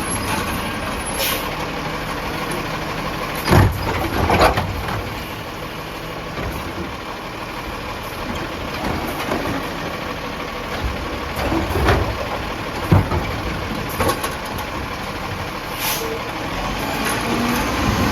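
Peterbilt 320 garbage truck running, with several loud clunks and bangs and a few short air hisses.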